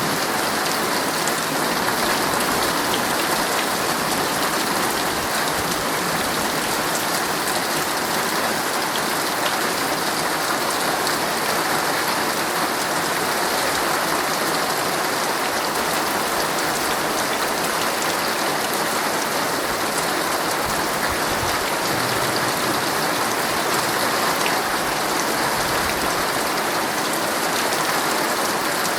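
Heavy rain falling steadily on a tent, a dense, even patter with no pause.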